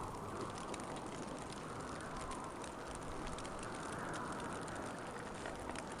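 Winter wind blowing steadily with slow, gentle swells, overlaid with many faint scattered ticks and crackles.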